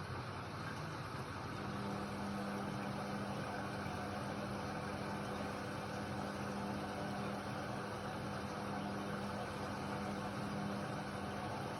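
Indesit WIDL 106 washer-dryer running, with a constant noise throughout. A steady motor hum starts about a second and a half in and stops shortly before the end.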